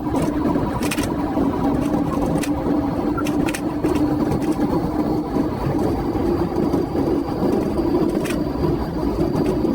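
Police patrol car driving fast, its engine and road noise making a steady drone, with a few sharp clicks.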